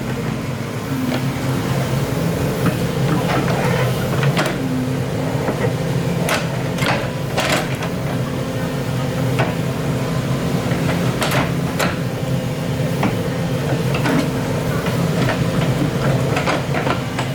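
Excavator's diesel engine running steadily, with scattered sharp metal clanks and knocks as it digs.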